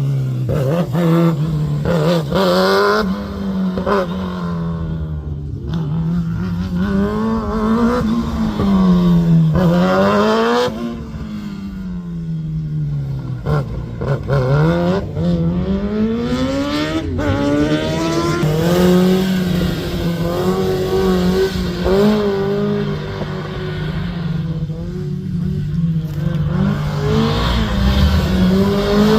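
Rally car engine driven hard, its revs repeatedly climbing and dropping through gear changes and lifts.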